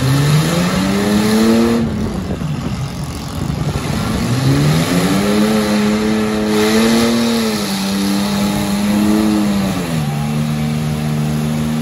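Demolition derby car engine revving hard on the dirt track. The pitch climbs early, falls back about two seconds in, climbs again and holds high, then drops to a lower steady pitch about ten seconds in.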